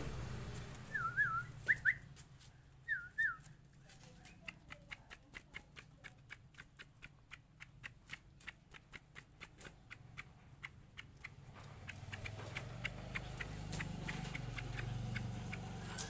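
Caged leafbird giving a few short, quick whistled notes in the first few seconds. Then comes a long run of sharp, regular clicks, about four a second. A low hum rises near the end.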